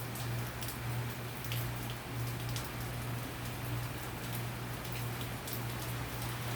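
Rain falling steadily, with many scattered sharp drop ticks on a surface. A steady low hum runs underneath.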